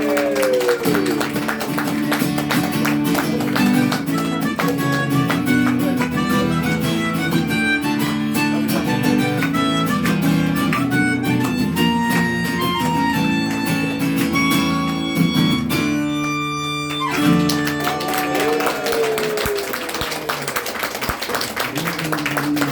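Instrumental outro of a live band song: a melodica plays sustained melody notes over strummed acoustic guitar. The music stops about three quarters of the way through, and clapping follows.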